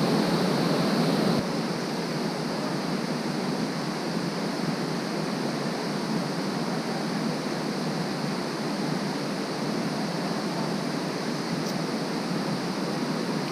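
Shallow creek water flowing, a steady rush, a little louder for the first second and a half.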